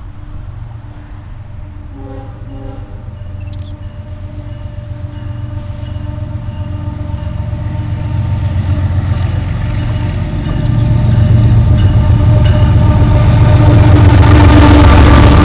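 CSX freight train's diesel locomotives approaching and passing close by, their low engine rumble growing steadily louder and loudest near the end as the lead units roll past.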